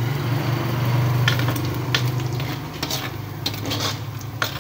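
Pork pieces sizzling in their rendered fat in a wok, with a metal ladle scraping and clacking against the wok several times from about a second in. A steady low hum runs underneath.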